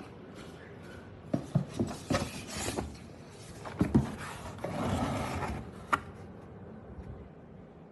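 Handling noises: a string of irregular clicks and knocks with some rubbing, ending in a sharp click about six seconds in.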